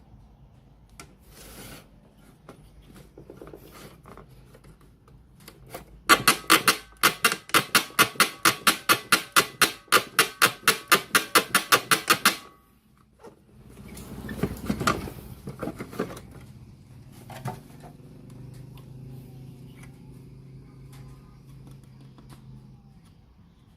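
A fast, even run of sharp mechanical clicks, about four a second for some six seconds, then handling rustle and a low steady hum.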